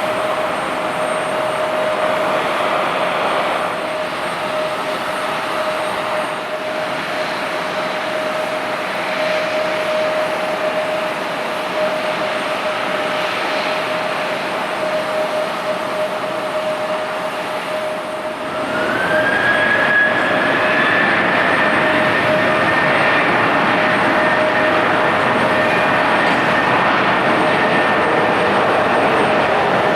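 Jet airliner engines whining steadily with a constant tone. About two-thirds of the way in, a higher whine rises and settles as engines spool up, and the sound gets louder.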